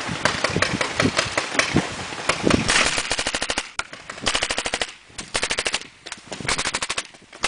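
Paintball markers firing rapid, machine-gun-like strings of shots at about a dozen a second. The firing is nearly continuous at first, then breaks into short bursts with gaps between them.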